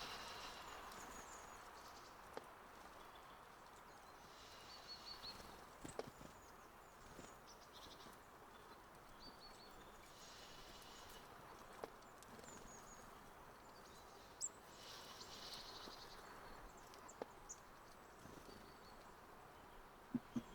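Faint outdoor quiet with small songbirds giving short, high chirps every few seconds, and a few soft ticks here and there.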